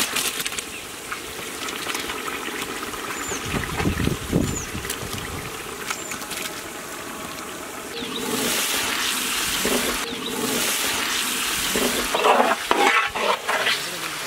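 Raw chicken pieces sliding from a metal bowl into a large pot of frying onions, tomatoes and chilies, sizzling in the hot oil. From about halfway through, a flat spatula stirs through the mix, louder and wetter, with scraping against the pot near the end.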